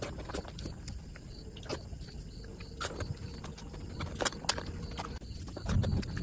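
Close-miked wet chewing and lip-smacking of a hand-fed mouthful of curry and rice, with many short sharp mouth clicks, and a louder low chewing sound near the end.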